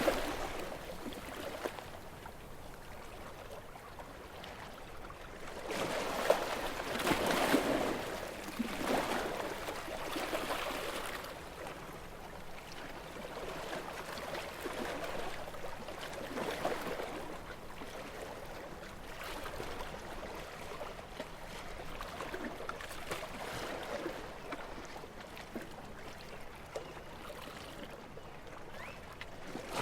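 Small, gentle sea waves washing and lapping on the shore, swelling and fading every few seconds with the largest wash about six to eight seconds in.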